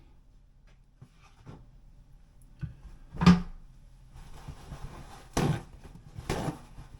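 Putty knife working two-part body filler over a drywall patch: a sharp knock about three seconds in, then a few scraping strokes, two of them louder near the end.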